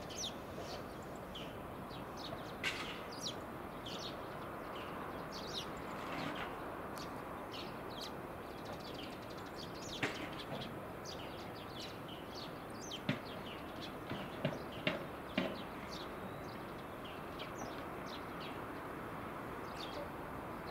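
Small birds chirping in many short, high, scattered calls over a steady background noise, with a few louder, sharper calls in the middle.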